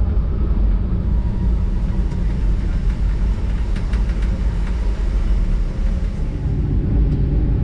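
Metre-gauge electric train of the Centovalli Railway running along the track, heard as a steady low rumble from inside the carriage, with a few short clicks about four seconds in.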